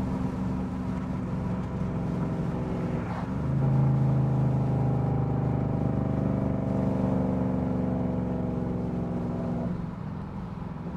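Dodge Durango R/T's 5.7 HEMI V8 running on the road. It dips briefly about three seconds in, then pulls louder and steady before easing off near the end.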